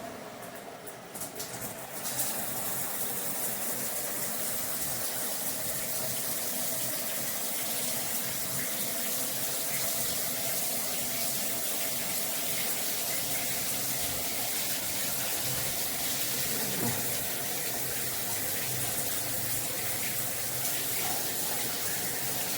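Shower water running: a steady spray that comes on and grows stronger about two seconds in, then holds even.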